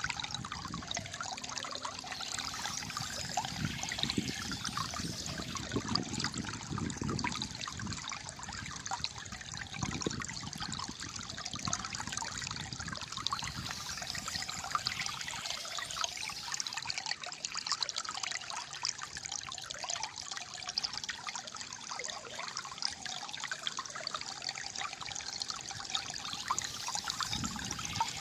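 Water flowing steadily, trickling and gurgling, with low gurgling pulses that are stronger for the first several seconds.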